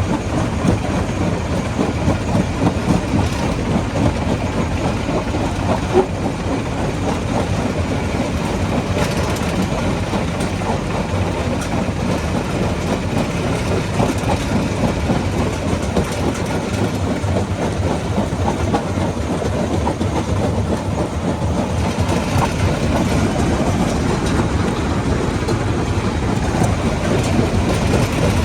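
Rock crusher running under load: a steady heavy rumble with constant clattering and grinding of stones.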